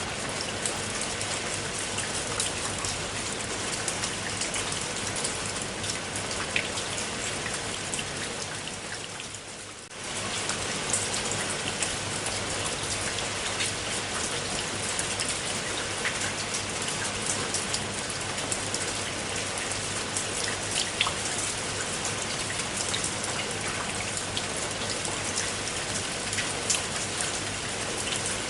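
Steady rain falling, with individual drops ticking now and then. About a third of the way in it fades a little and then comes back suddenly at full strength.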